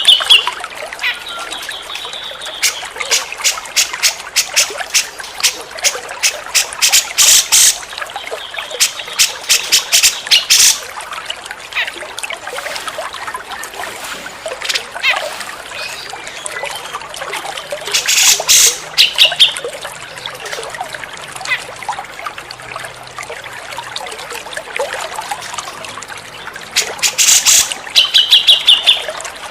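Grey-cheeked bulbul (cucak jenggot) singing in bouts of rapid, loud chattering notes with short whistled phrases, over a steady trickle of running water. The bouts come at the start, through most of the stretch from about 3 to 11 seconds in, briefly around 18 seconds, and again near the end.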